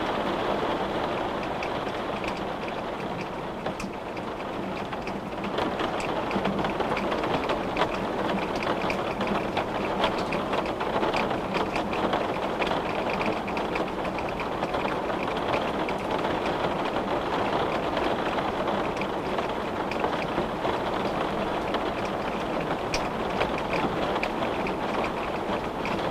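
Steady rain falling: a dense hiss with many small drops tapping. It grows a little heavier about five seconds in.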